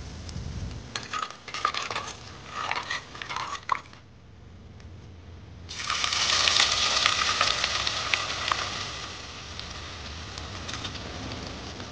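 Metal spatula scraping and clicking against a kadhai, then about six seconds in a sudden loud sizzle as food goes into hot oil, fading slowly while the stirring clicks go on.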